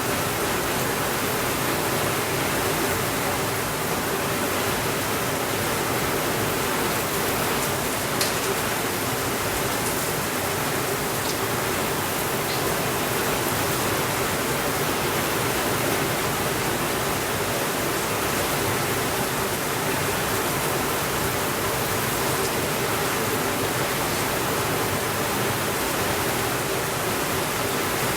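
Steady rainfall, a dense, even hiss with no lulls, with a few faint ticks scattered through it.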